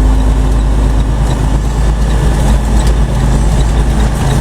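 Truck's diesel engine running, heard from inside the cab as a steady low rumble.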